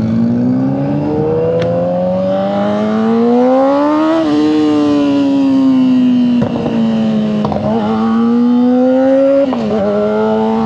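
Honda CBR600RR's inline-four engine under way, its pitch rising for about four seconds and then easing down. A few short breaks and a drop in pitch come in the second half, where the throttle comes off or a gear changes.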